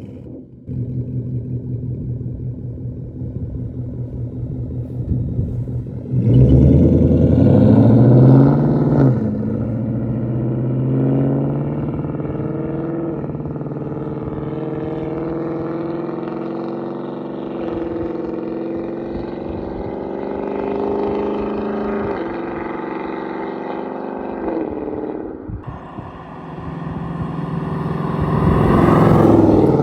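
2024 Mustang GT's Coyote V8 through an H-pipe and muffler-delete exhaust, rumbling at low revs, then accelerating sharply about six seconds in with its pitch climbing. It settles into a steady drone with small shifts in pitch, dips briefly, and accelerates again with rising pitch near the end.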